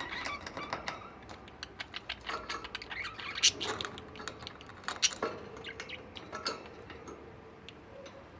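Budgies chattering softly in short chirps amid many small clicks and taps, with a couple of sharper clicks in the middle.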